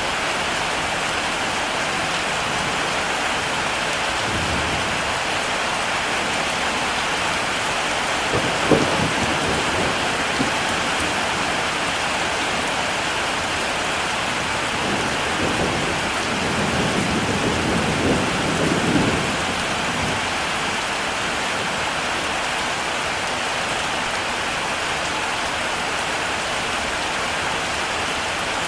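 Heavy rain falling steadily, with thunder: a low rumble about four seconds in, a sharp crack a few seconds later, and a longer rolling rumble past the middle.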